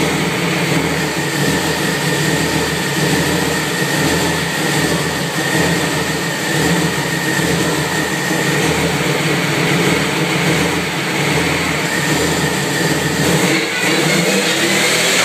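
Modified Subaru Impreza's engine running steadily with the car up on a lift, turning a newly fitted Modena sequential dog-box gearbox as it is run up for a check. A thin, steady high whine sits over the engine for the first eight seconds or so, then fades.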